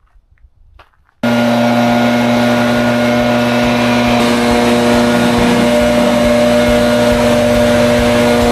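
A loud engine-driven machine running steadily at constant speed, cutting in abruptly about a second in after near silence.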